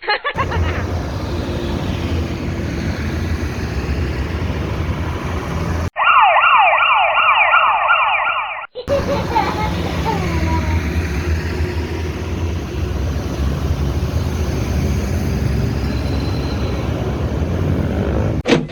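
Heavy truck engines running steadily. About six seconds in, this is cut away for roughly three seconds by a rapidly repeating, rising siren wail, then the engine noise returns.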